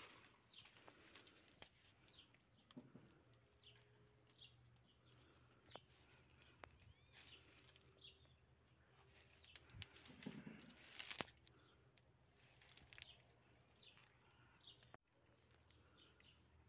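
Faint bird chirps, short falling calls repeated every second or so, over the rustle of vine leaves and a few handling clicks, with one louder rustle about two-thirds of the way through.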